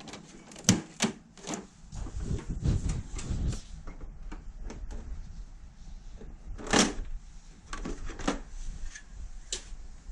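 Irregular clicks and knocks of hard objects being handled, with two sharper knocks, one under a second in and one about two-thirds through.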